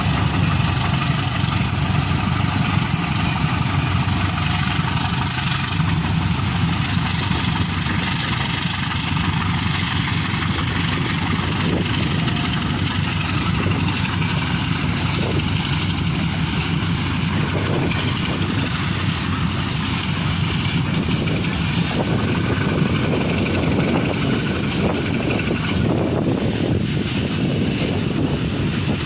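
Diesel engines of a pair of GE U13B locomotives running with a steady low drone.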